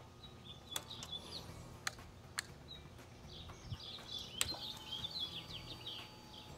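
Faint birds chirping, with a few light clicks scattered through.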